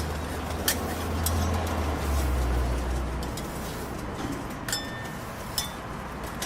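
Busy street-stall background: a low rumble for the first three seconds, with several sharp metallic clinks, a few ringing briefly, over steady noise.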